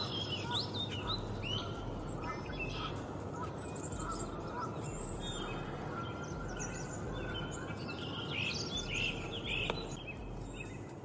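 Birds chirping and singing, many short overlapping calls, over a steady background hiss of outdoor ambience.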